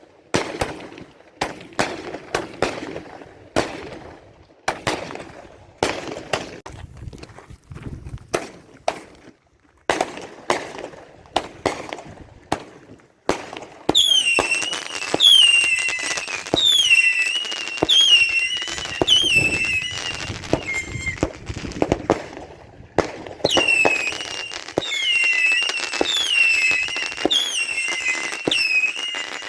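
Consumer fireworks going off: a quick string of sharp bangs and crackles, then from about halfway a volley of high whistles, each falling in pitch, about one a second among the pops, with a short break before they resume.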